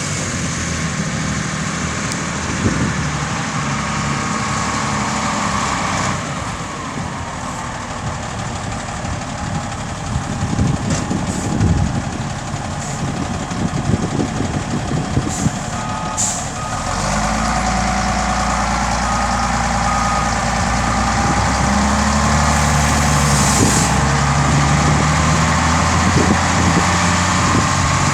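Volvo A30C articulated dump truck running, its diesel engine steady with a reversing alarm beeping over it. The engine gets louder and deeper about two-thirds of the way through, as if put under load.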